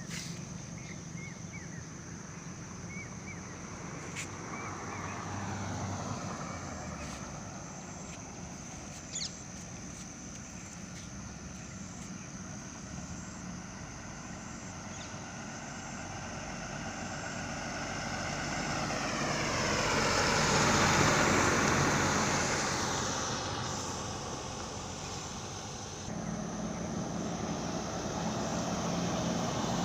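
Highway traffic noise, with a truck passing close by about two-thirds of the way through. Its engine and tyre noise swells to a peak and then fades, and its pitch drops as it goes past.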